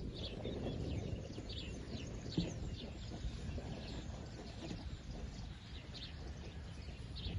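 Small birds chirping outdoors: short, high-pitched chirps repeating irregularly about once or twice a second, over a steady low rumble of wind.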